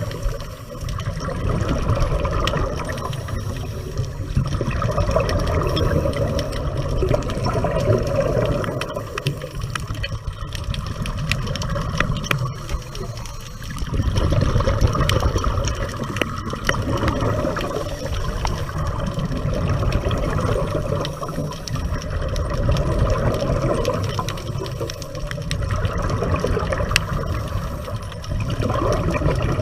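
Scuba diver's exhaled regulator bubbles heard underwater: a bubbling water noise that swells and fades every few seconds with each breath.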